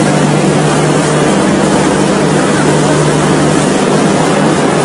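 Passenger train coaches rolling slowly past: a steady, loud running noise with a constant low hum underneath.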